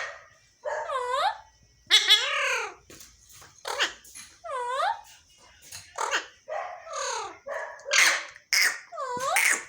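Pet parrots squawking: a run of short calls about one a second, many dipping and then rising in pitch, with sharper shrill screeches among them.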